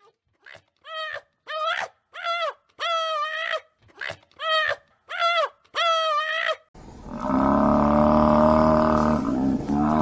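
A cat meowing about eight times, short calls that each rise and fall in pitch. Near the end a much louder, long, low animal call starts and holds steady.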